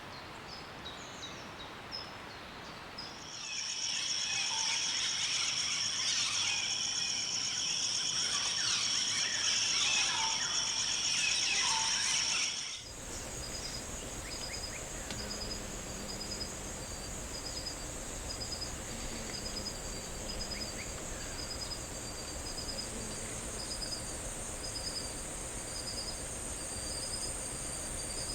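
Tropical forest ambience of insects and birds: high chirps and calls over steady insect trilling, louder and denser from about three seconds in, then switching abruptly at about thirteen seconds to a steady high insect buzz with a short pulsed call repeating about once a second.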